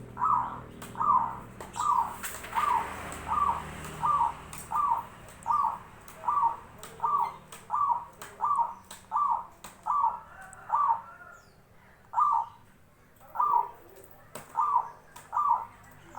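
Zebra dove (perkutut) calling: a steady series of about twenty short calls, roughly 0.75 s apart, with a brief pause about three quarters of the way through.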